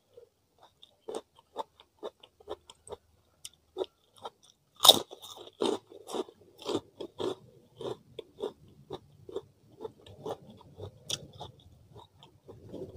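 Close-miked chewing of crunchy food: scattered small crunches, then a loud crunchy bite about five seconds in followed by a steady run of crunching chews.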